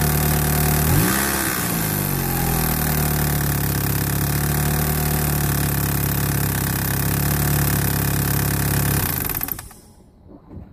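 1991 Talon TSi AWD's turbocharged 2.0-litre four-cylinder engine idling steadily, with one quick rev that rises and falls about a second in. The engine is switched off near the end, and its sound dies away within about half a second.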